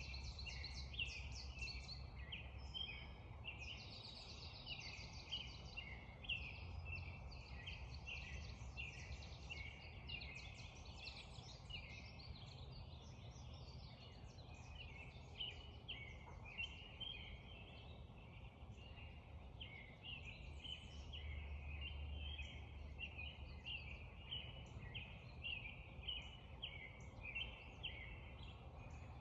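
Spring dawn chorus: many songbirds calling and singing at once, short overlapping phrases with no pauses, over a steady low rumble.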